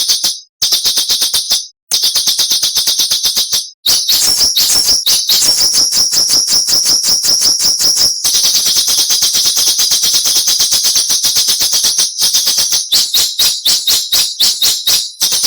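A songbird's harsh, rapid chattering trill of the 'besetan' kind used in masteran tutor recordings: high, scratchy notes at about ten a second, broken by brief pauses in the first four seconds, then running almost without a break.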